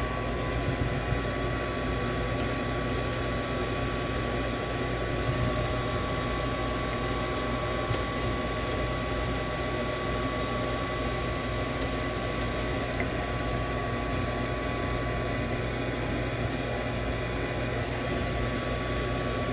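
Furnace draft inducer motor running steadily: a constant hum with a thin whine, and a few faint ticks. The furnace goes no further because the pressure switch does not close, which the technician traces to the cold end header box not passing enough pressure.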